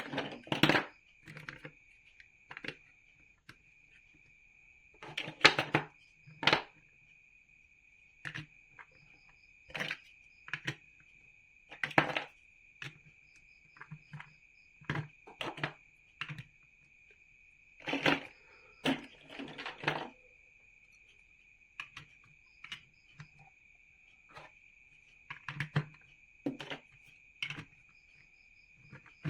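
Plastic building bricks being handled and snapped together: irregular clicks and short rattling clusters, over a steady high-pitched whine.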